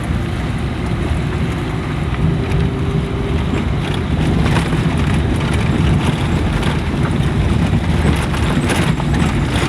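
Steady low rumble of a moving vehicle: engine and road noise heard from on board while travelling along a village road.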